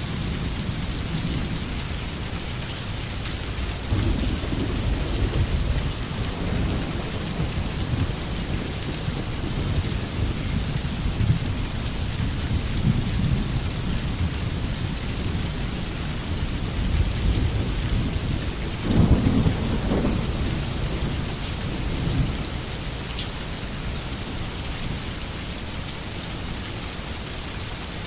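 Steady rain falling on the forest, with low rumbles of thunder underneath; the loudest rumble comes about two-thirds of the way through.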